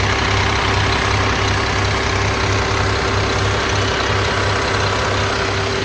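Diesel engine of a 2009 Mack MRU613 garbage truck idling steadily, a low rumble with a steady whine over it. The engine runs smoothly, and the seller says it sounds great.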